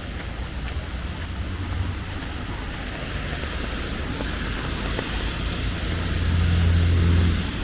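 Steady hiss of falling rain, with a low rumble underneath that swells to its loudest about six to seven seconds in, then drops off.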